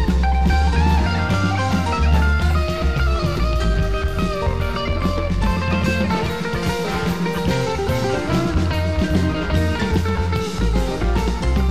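Rock music: a guitar playing a moving melodic line over bass and drums.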